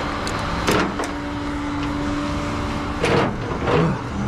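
A vehicle on the move: steady engine and road noise with a constant low hum. There are three short louder noises, about three-quarters of a second, three seconds and nearly four seconds in.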